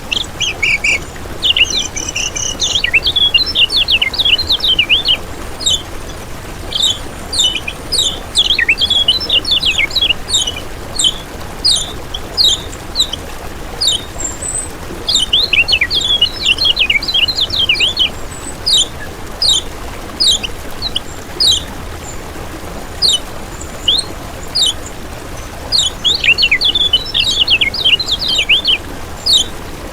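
Kecial kuning (a yellow white-eye) singing: rapid high twittering runs of sharp chirps, broken by spaced single chirps, over a faint steady hiss. This is the kind of loud, busy song used as a master recording for training and luring songbirds.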